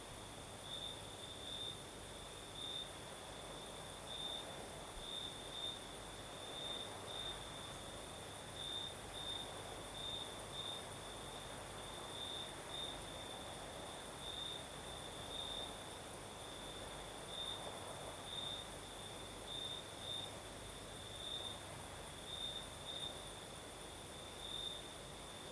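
Crickets singing in a continuous high trill, one of them louder and pulsing every half second or so, over a soft breeze that swells and fades.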